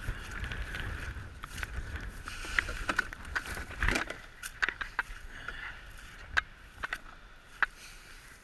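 Scattered clicks and knocks from goose decoys being handled and packed up, with wind rumbling on the microphone that fades about four seconds in.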